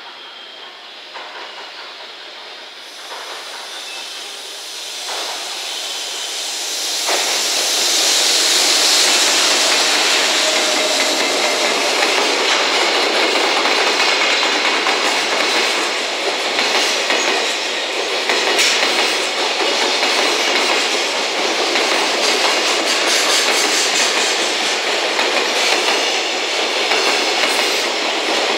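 Long JR Freight container train headed by an EF210 electric locomotive, approaching and growing louder. From about seven seconds in it passes close by, a steady loud rumble and rattle of container wagons with their wheels clattering on the rails.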